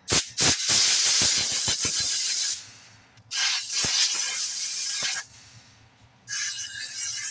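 Compressed-air blow gun blowing out an air filter in three hissing blasts, the first about two and a half seconds long and opening with a few sharp clicks.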